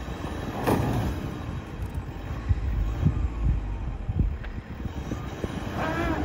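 Truck engine running and straining while the vehicle is stuck in deep snow, with irregular thumps over a steady low rumble.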